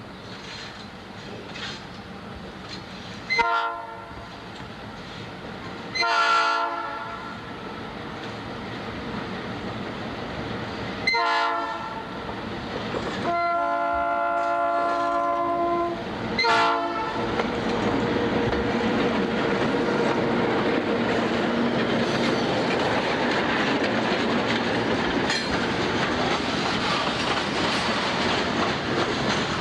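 Diesel locomotive air horn on EMD F units sounding five blasts, the fourth held longest, a crossing-style signal as the train approaches. From about halfway on, the train's rumble and rolling wheels on the rails build up loudly and run on as it passes close by.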